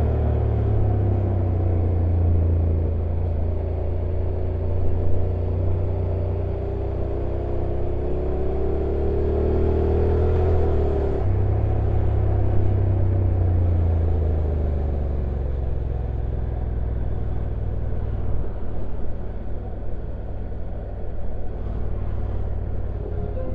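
Honda NC750X's parallel-twin engine running on a downhill ride with a steady rumble. Its pitch climbs slowly to about ten seconds in, then drops sharply, and it runs at a lower pitch after that. A steady rushing noise lies underneath.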